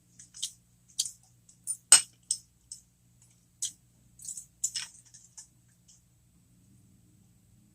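Close-miked chewing and mouth sounds: scattered short, sharp wet clicks and smacks, the loudest about two seconds in, thinning out after about five seconds.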